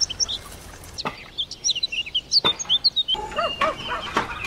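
Chickens clucking: a run of repeated clucks about three a second in the second half, over high chirping of small birds, with two sharp clicks in the first half.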